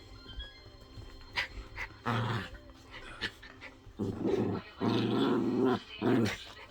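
Biewer Yorkshire terriers play-fighting, growling in several short bursts, busiest in the second half.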